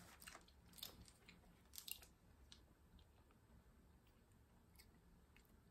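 Very faint chewing and a few crisp crackles, mostly in the first two seconds, as a person bites and eats a small piece of dark oat milk chocolate.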